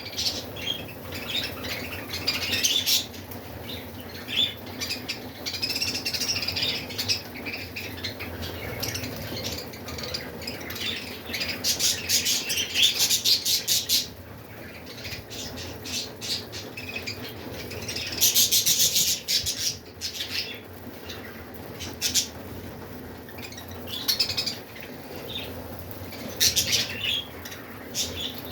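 A flock of budgerigars chirping and chattering continuously, with bursts of rapid ticking about twelve and eighteen seconds in.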